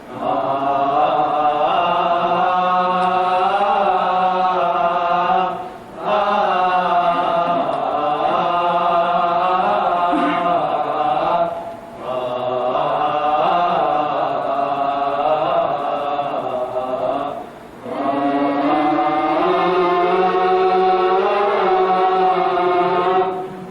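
A vocal group chanting an Arabic elegy together in long, slow phrases. There is a brief pause about every six seconds, over a steady low held tone.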